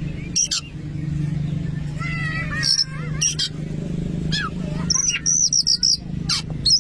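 Oriental magpie-robin (kacer) singing: sharp clicks mixed with warbled, whistled phrases, and a quick run of repeated high notes about five seconds in, over a steady low hum.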